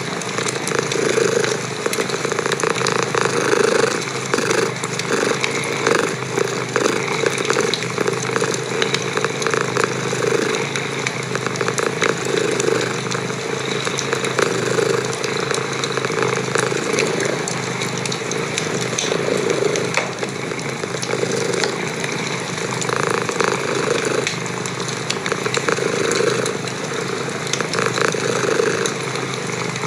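A cat purring close up, the purr swelling and easing with each breath every second or two, over the crackling and popping of a wood fire in a fireplace.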